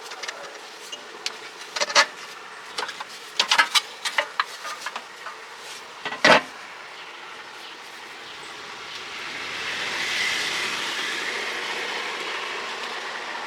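A string of sharp clicks and knocks, the loudest about six seconds in, then a steady hiss that swells about ten seconds in and holds.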